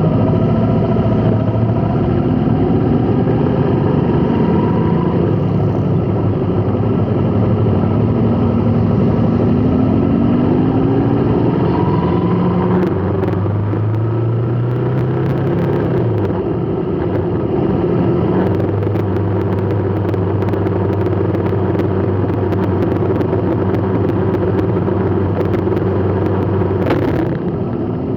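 Road traffic: vehicle engines running steadily, their pitch rising and falling as they speed up and slow down, with scattered light ticks in the second half.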